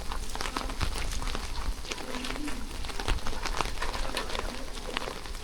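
Rain falling, with many sharp ticks of drops striking nearby surfaces over a steady hiss and a low rumble.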